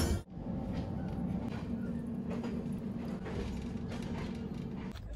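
Steady low rumble of a moving passenger train heard from inside the coach, with faint scattered ticks over it. It opens with the tail end of a short knock.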